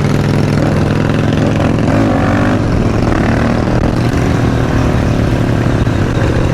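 Supermoto motorcycle engine running at a steady, fairly constant speed while riding, its note wavering slightly in pitch about two seconds in, over a continuous rush of noise.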